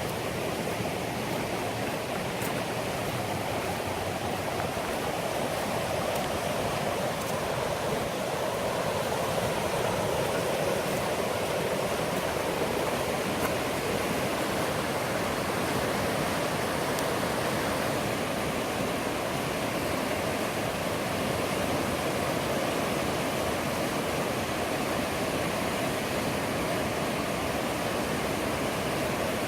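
Millstone River water rushing over rocks, a steady, even rush.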